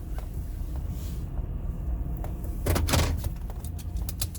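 Minivan idling, heard from inside the cabin as a steady low hum, with a short clattering noise a little under three seconds in.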